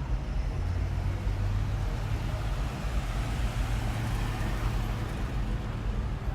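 A car driving past on the street: a steady low engine hum with road noise that grows louder through the middle and eases off near the end.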